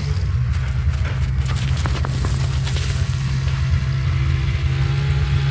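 An engine running steadily with an even, low hum and a few light knocks.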